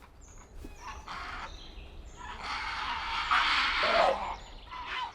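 Grey herons at the nest giving harsh, rasping calls, several in a row, with the longest and loudest about three seconds in.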